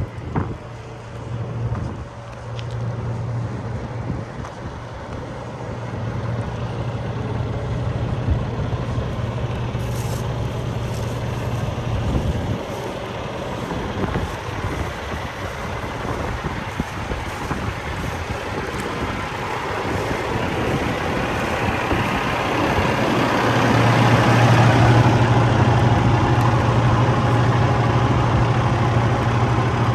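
Diesel engine of a 2015 Freightliner Cascadia semi truck running with a steady low hum. It grows louder and brighter in the last several seconds.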